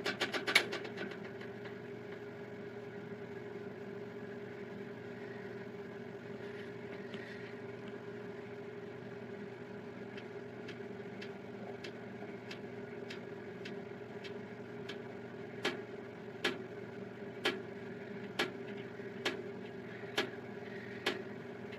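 Gevi air fryer toaster oven running with a steady hum of its convection fan. From about halfway through, a regular click about once a second joins in and grows louder near the end.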